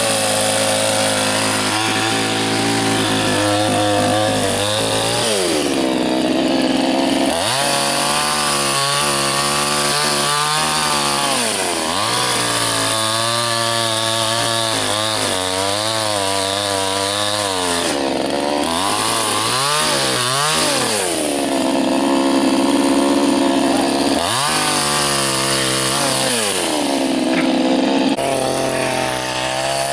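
Soyuz PTS-99520T two-stroke chainsaw running hard while bucking birch into firewood. Its engine note drops sharply and climbs back about five times as it labours in the cut and recovers.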